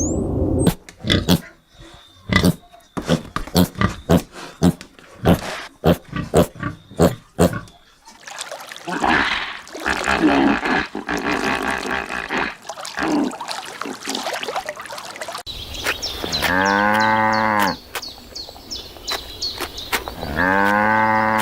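Farm animals vocalising: a quick run of short, sharp grunt-like sounds, then a rougher, noisier stretch, then two long, drawn-out calls near the end.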